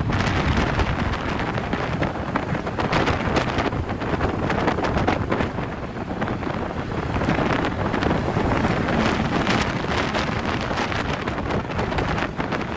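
Wind buffeting the microphone on a moving vehicle, a loud steady rush with constant gusty crackle, over the vehicle's road noise.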